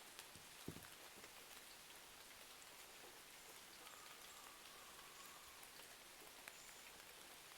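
Faint steady rain, with scattered small drop ticks and crackles. There is one soft low knock just under a second in.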